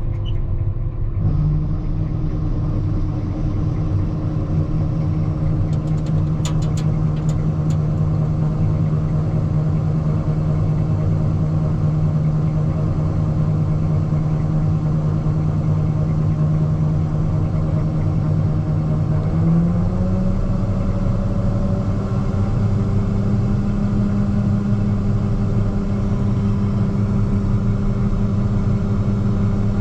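Massey Ferguson 9690 combine running steadily, its engine note stepping up in pitch about two-thirds of the way through. A few light clicks sound about six to eight seconds in.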